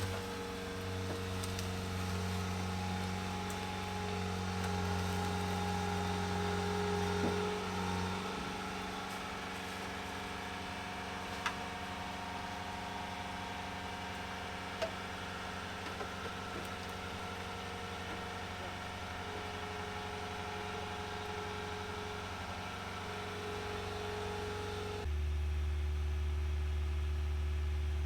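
A steady low mechanical hum, changing in pitch about a third of the way in and shifting abruptly near the end, with a couple of faint sharp clicks.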